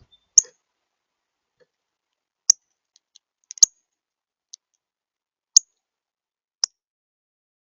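Sharp, high clicks from a bird at a seed feeder, about five loud ones a second or so apart, with a few fainter ticks between.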